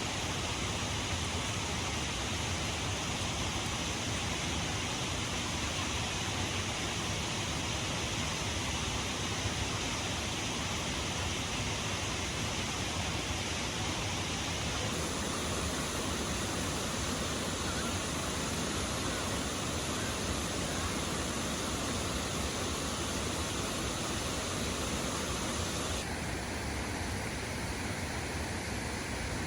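Waterfall: falling water making a steady, even rush, its tone shifting abruptly about halfway through and again near the end.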